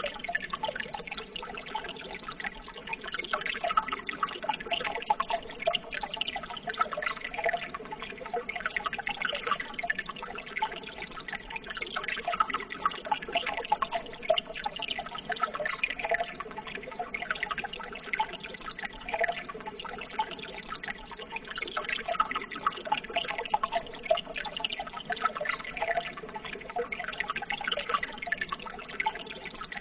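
Water trickling and babbling steadily, a continuous run of many small splashes and drips.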